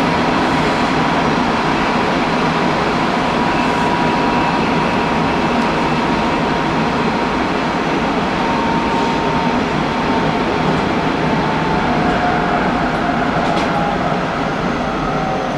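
Hanshin Railway local train running, heard from inside the front car: steady rail and wheel noise with a thin motor whine that slowly drops in pitch over the second half as the train slows for the next station.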